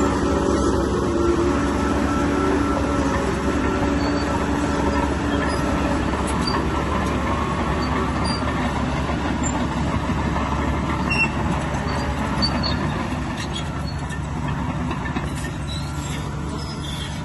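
Crawler bulldozer working: its diesel engine runs steadily under a continuous machine noise, with short high squeaks from its steel tracks scattered through.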